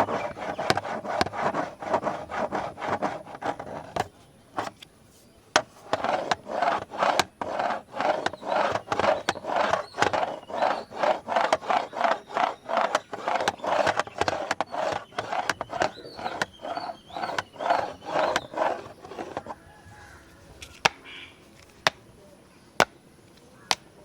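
Repeated scratching strokes on a big camera's body, about two a second, with a short pause about four seconds in. About nineteen seconds in the scratching stops, leaving a few sharp taps.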